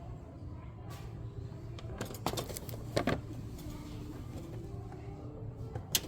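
Steady low background hum with a few sharp clicks and rattles about two, three and six seconds in.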